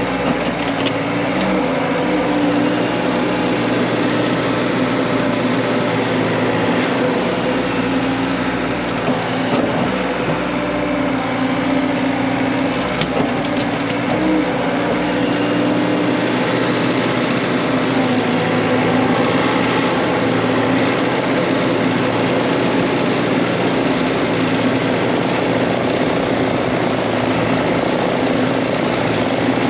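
Bobcat T66 skid steer's diesel engine running steadily under work, with a few sharp cracks, likely from broken branches, about 13 seconds in.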